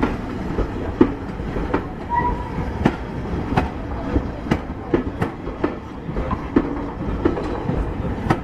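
Steam-hauled train of an LMS Stanier Class 5 rolling past, with a steady rumble and sharp clicks of the wheels over rail joints every half second to a second.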